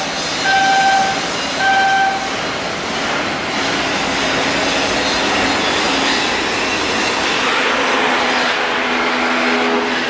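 Shipyard work noise: a warning beeper sounds twice in the first couple of seconds, then steady machinery noise, with a high hiss joining in about seven seconds in.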